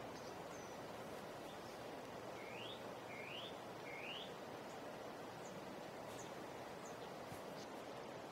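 Faint, steady forest night ambience. About two seconds in, a bird gives three quick rising calls in a row, and a few faint, very high short chirps come and go.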